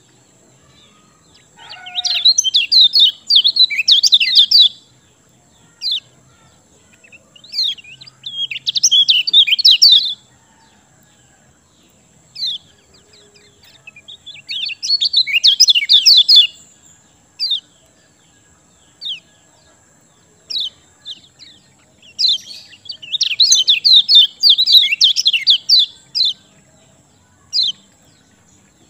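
A kecial kuning songbird in full song: four bursts of rapid, high chirping warbles, about a second to four seconds each, with single sharp call notes in the gaps between them.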